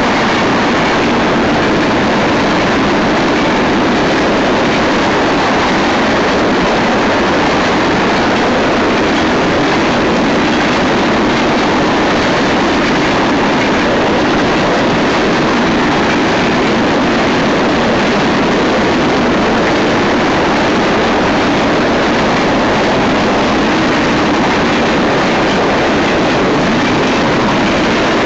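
Freight cars of a Union Pacific manifest train rolling past: tank cars, covered hoppers and gondolas going by with a steady, unbroken noise of steel wheels on rail.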